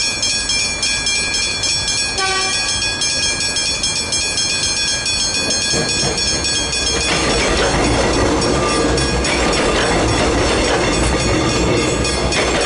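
Level crossing warning bells ringing in a fast, steady repeat, with a short horn blast about two seconds in. From about seven seconds a passing train's rumble and wheel noise rise and drown out the bells.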